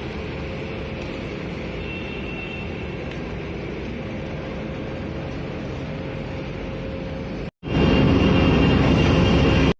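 Truck-mounted vacuum street sweeper running, its engine and suction blower making a steady drone. About seven and a half seconds in it cuts out for a moment, then comes back much louder.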